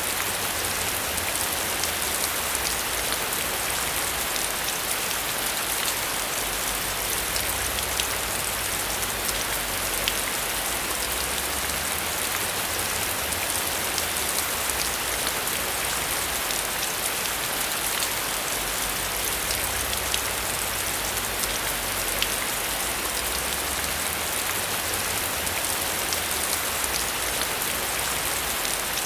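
Steady heavy rain: a dense, even hiss scattered with sharp ticks of individual drops striking a surface, over a low rumble that swells and fades every few seconds.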